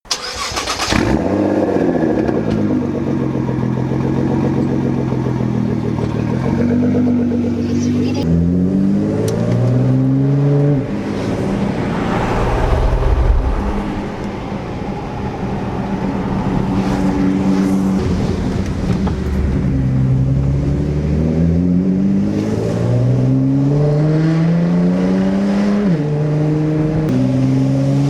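Straight-piped Nissan GT-R R35's twin-turbo V6 under load, its pitch climbing as it accelerates and dropping sharply at gear changes about eleven seconds in and again near the end.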